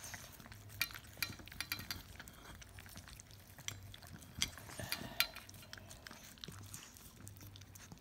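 A dog licking an emptied pan clean: irregular wet tongue laps with small clicks and scrapes against the pan.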